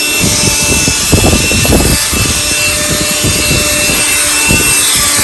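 Cordless vacuum cleaner running steadily with a constant high whine, its nozzle scraping and bumping as it is pushed over the car's interior.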